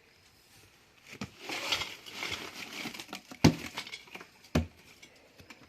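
Wet cement mortar being scraped and worked with a metal hand tool for about two seconds, then a sharp metallic clink about three and a half seconds in and a second knock about a second later.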